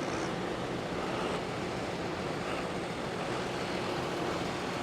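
Many tractor engines running together at a gathering, a steady mixed rumble.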